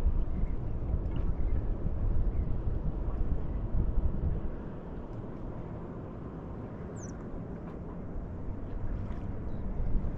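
Wind and water noise aboard a small sailing yacht rolling at anchor, an even low rushing with no engine or voice, louder for the first four or so seconds and then quieter, with a brief faint high squeak about seven seconds in.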